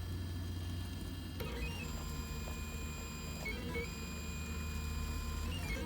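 K2800 3D printer's stepper motors whining as the print head moves, their tones jumping to a new pitch a few times as the moves change. A steady low hum runs underneath.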